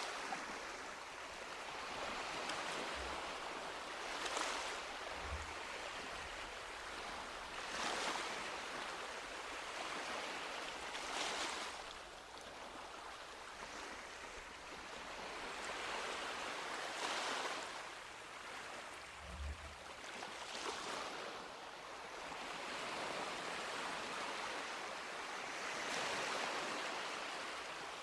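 Small sea waves breaking and washing up a beach, a steady hiss of surf that swells with a new wave every three to four seconds.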